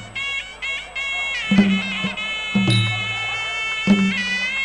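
Traditional Khmer boxing music: a sralai, a shrill reed oboe, plays a wavering, sustained melody over low drum strokes about once a second.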